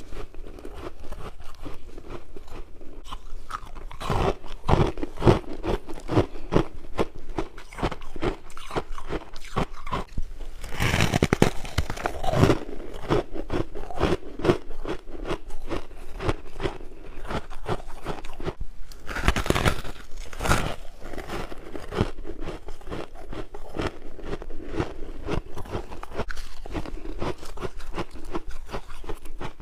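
A person biting and chewing frost and ice, a steady run of crunches with louder bouts of biting about four, eleven and twenty seconds in.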